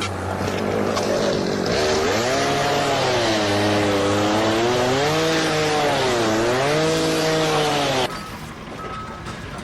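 A loud motor running, its pitch rising and falling again and again as if revved under load, cutting off abruptly about eight seconds in.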